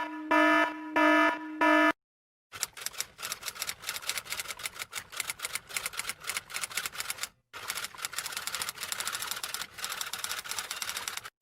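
A short electronic beep sounds four times in quick succession. Then come two runs of fast typing clatter, each several seconds long, with a brief pause between them.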